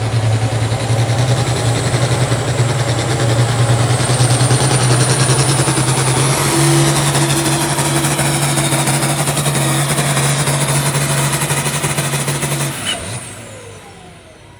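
International Harvester 1066 tractor's turbocharged six-cylinder diesel running hard at full throttle under load on the pulling sled, its pitch stepping up about halfway through. Near the end the throttle is cut and the engine sound falls away quickly.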